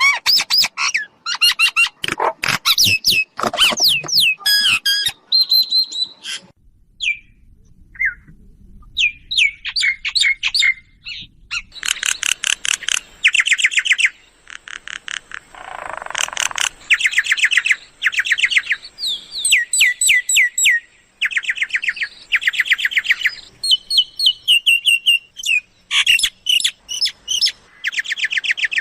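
Myna calls: bursts of rapid, harsh chirps and whistles, each burst about a second long and repeated again and again. There is a short lull a few seconds in.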